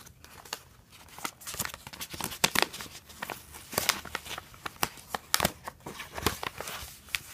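Small gift-wrapped package being opened by hand: the wrapping is torn and crinkled open in a string of irregular crackles and crisp snaps.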